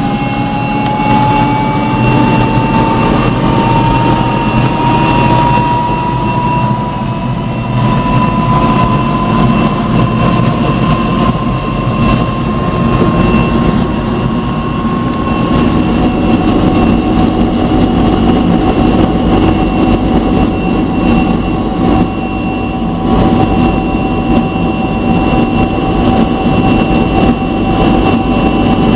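Helicopter in flight: steady, loud engine and rotor noise with a high turbine whine that rises slightly in pitch over the first half.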